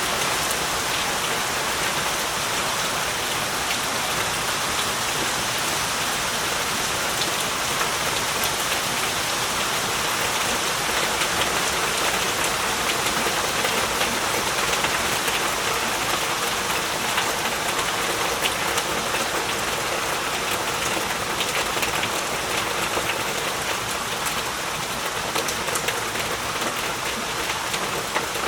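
Heavy rain falling steadily, a dense even hiss of rain with many individual drops pattering on surfaces.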